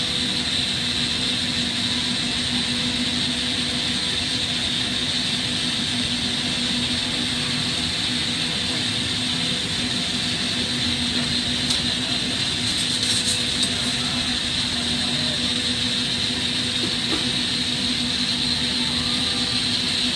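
Steady rushing noise of a propane-oxygen glassblowing torch burning, over a steady low hum, with a few faint clicks near the middle.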